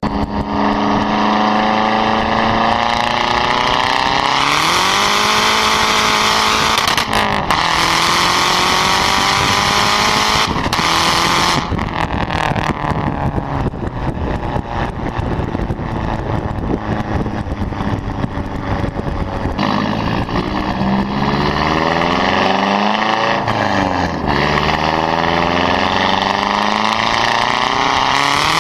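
Mazdaspeed3's turbocharged 2.3-litre four-cylinder through a straight-piped single exit with no cats, mufflers or resonators. The revs climb in three pulls with short breaks between them, fall away slowly for several seconds, then climb again near the end.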